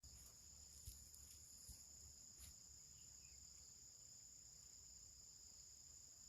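Faint, steady high-pitched insect chorus, with a couple of faint ticks in the first two seconds.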